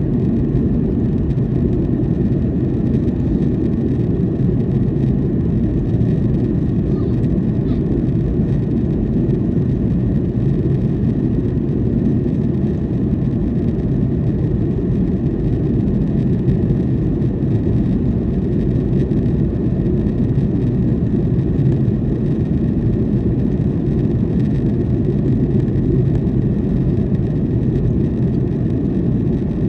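Steady, loud cabin rumble of a Boeing 737-800 in flight, heard from a window seat: engine and airflow noise from its CFM56 turbofans and the rushing air along the fuselage, deep and unchanging.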